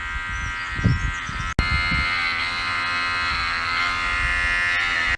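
Electric hair clippers buzzing steadily while cutting hair. The buzz breaks off briefly about a second and a half in and returns louder.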